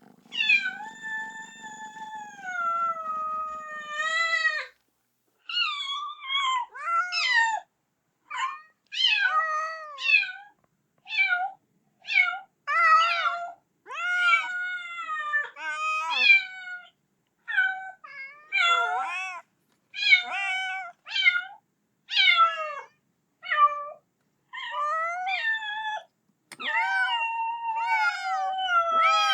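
Kitten meowing over and over, calling for its mother: a long drawn-out high cry at the start, then a quick run of short rising-and-falling meows with brief gaps, and another long call near the end.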